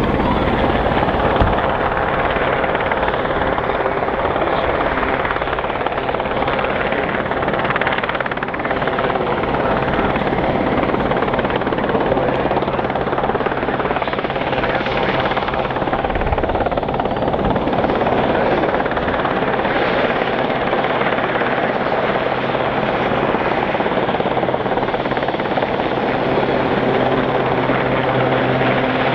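Westland Sea King helicopter's rotors and twin Rolls-Royce Gnome turboshaft engines running in flight, a steady, unbroken sound.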